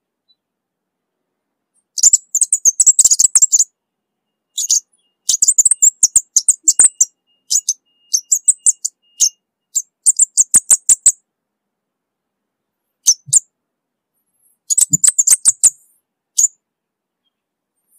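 Scarlet-headed flowerpecker calling: bursts of rapid, very high, sharp ticking notes, each burst lasting about a second, repeated after short silent pauses about eight times.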